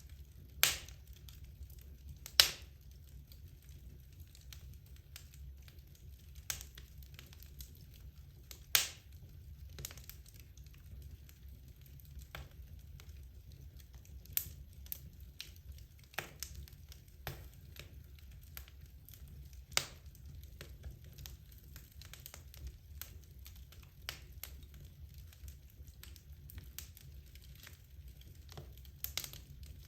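Wood logs burning in a fireplace, crackling with irregular sharp pops. The loudest snaps come about a second in, at two and a half seconds and near nine seconds, over a low steady rumble.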